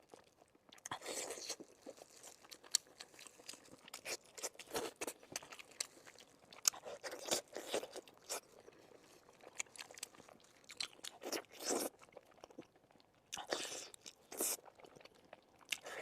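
Close-up eating of sweet and spicy pork bones: irregular crunching bites and chewing, with a short pause a little after the middle.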